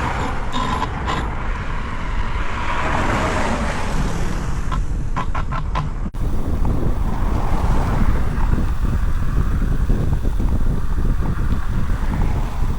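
Wind buffeting the microphone, a steady low rumble with a few light clicks. It breaks off abruptly about halfway through and resumes a little louder.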